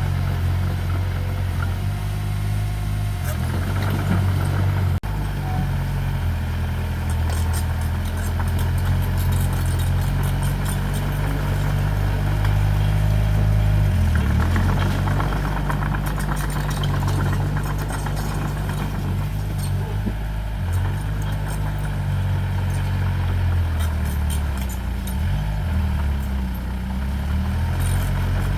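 Diesel engine of earthmoving machinery running and working, its pitch shifting as the throttle and load change, with stretches of light rattling.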